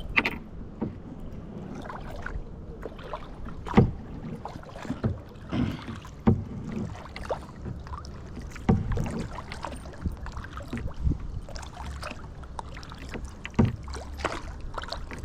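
Kayak paddling: irregular splashes of the paddle blades in the water and knocks of the paddle against the hull, over a low steady rumble.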